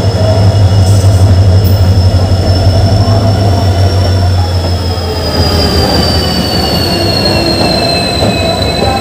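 Diesel locomotive of an arriving passenger train passing close by, its engine droning low and loudest in the first half. A thin, high, steady wheel squeal rides over it and slowly falls in pitch as the train slows at the platform.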